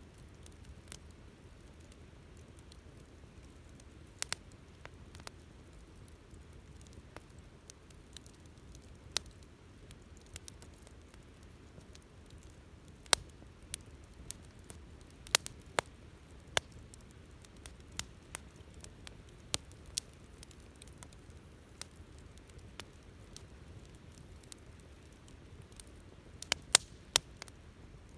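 Wood bonfire crackling: sharp pops at irregular intervals, busier around the middle and again near the end, over a soft steady hiss of the burning fire.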